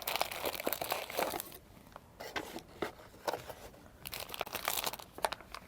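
Product packaging being opened and handled by hand. Dense crinkling and rustling of packaging fills about the first second and a half, then scattered light taps and rustles follow.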